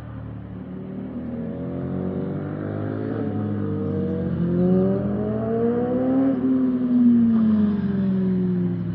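Motorcycle engine pulling under load, its pitch rising steadily for about five seconds and then falling away as it slows.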